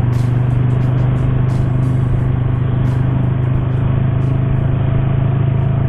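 Motorcycle engine running at a steady cruising speed while riding, a constant low drone with no change in revs.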